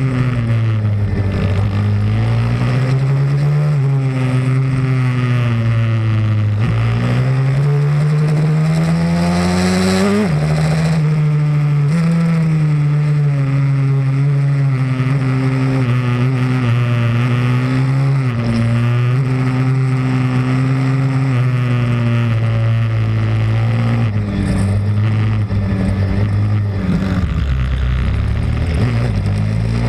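Pit bike's single-cylinder engine running hard on track, its pitch climbing under throttle and dropping sharply at gear changes, twice in the first ten seconds, then holding fairly steady with small dips before climbing again near the end.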